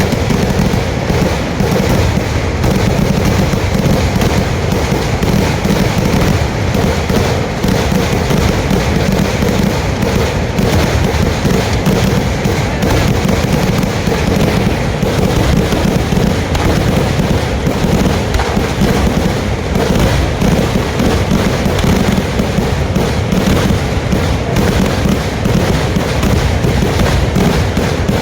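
Fireworks going off in a dense, continuous barrage of rapid cracks and bangs, without a break.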